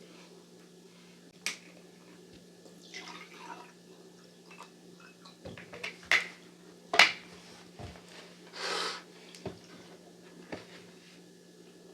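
A few sharp clicks and knocks of household items being handled, the loudest about seven seconds in, with a short rush of liquid about three-quarters of the way through, over a low steady hum.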